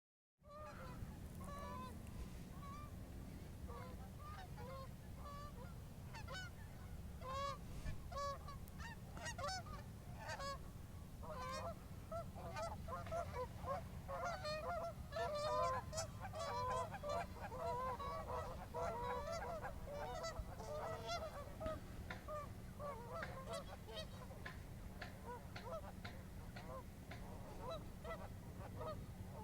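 A flock of geese honking, with many overlapping calls that crowd together most densely around the middle, over a steady low rumble.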